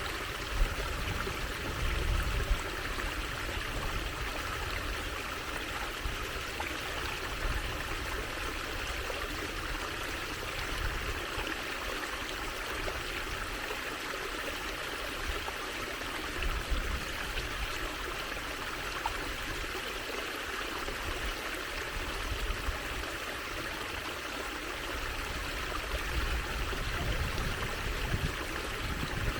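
Water trickling and flowing in a steady stream, an even hiss with no pauses.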